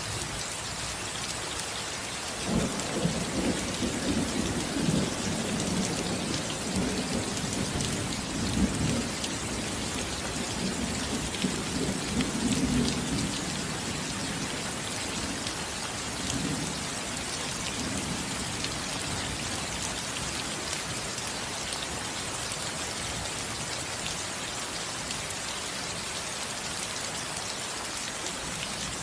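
Steady rain falling on a roof, with thunder rumbling low for about ten seconds starting a few seconds in, then weaker rolls that fade out.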